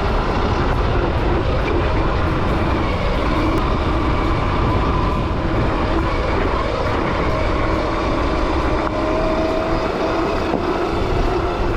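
Gowow Ori electric dirt bike riding along, heard as steady wind and tyre rush with a faint electric-motor whine that rises a little about eight seconds in.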